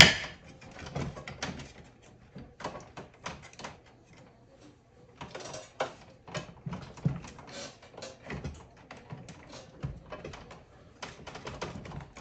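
Irregular clicks, taps and knocks of plastic and metal parts being worked into place as a replacement fan motor is fitted inside a mini-split heat pump's air handler, with a sharp knock at the start.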